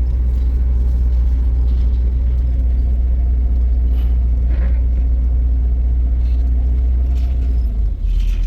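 Motor vehicle engine running with a steady low drone; the drone shifts slightly near the end.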